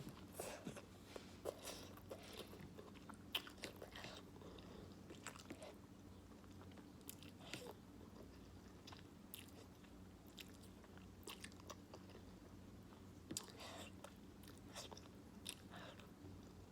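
A person chewing ramen noodles close to the microphone: faint, irregular wet mouth clicks and smacks.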